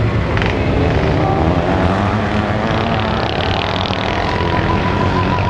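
Several motocross motorcycle engines running hard together, their pitches rising and falling as the riders open and close the throttle.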